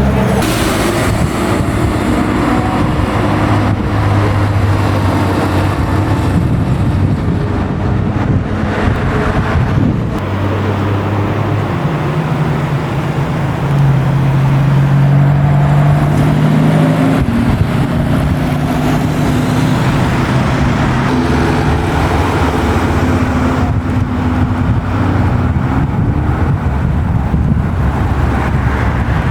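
Classic car engines running at low revs, the engine notes shifting in pitch now and then as cars move along.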